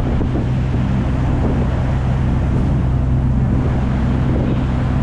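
Steady low drone of a river tour boat's engine under way, with an even rush of water and wind over it.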